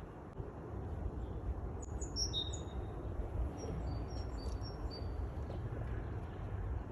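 Songbirds chirping in a spring forest: a few short high chirps about two seconds in, then a string of brief high notes, over a steady low rumble.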